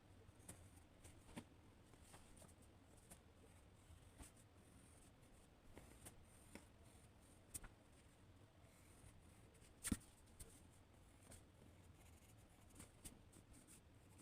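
Faint, scattered strokes and light taps of a drawing tool on paper, with one sharper click about ten seconds in.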